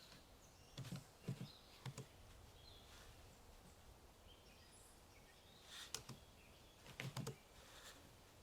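A few scattered computer keyboard keystrokes, about three around one to two seconds in and a few more near six and seven seconds, over a quiet background with faint bird chirps.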